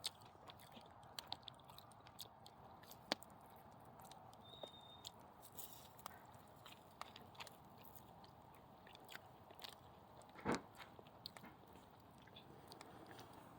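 Bonfire crackling faintly with scattered small pops and snaps, and one louder crackle about ten seconds in.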